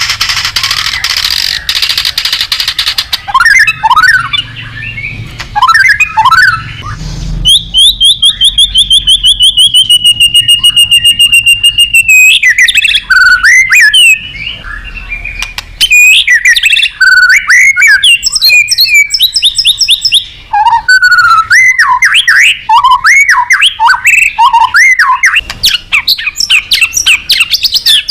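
White-rumped shama singing loudly and continuously in a long, varied song: a harsh scratchy passage at first, then swooping whistles, a fast rattling trill that slides down in pitch about eight seconds in, and rapid runs of notes.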